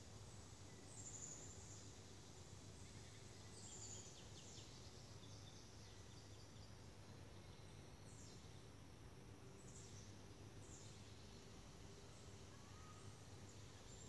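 Faint woodland ambience: a few short, high-pitched, downward-sliding bird chirps every second or few, over a faint steady low hum.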